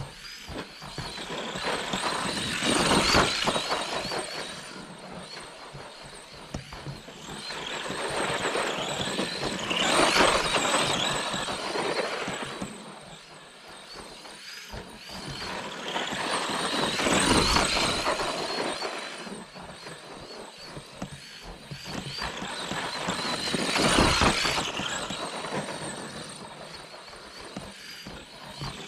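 ARRMA Granite 4X2 Boost RC monster truck running on its brushed Mega 550 electric motor, with a high whine that swells up and dies away four times, about every seven seconds.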